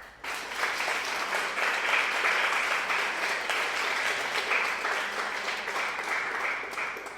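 Applause of many hands clapping, fading out near the end.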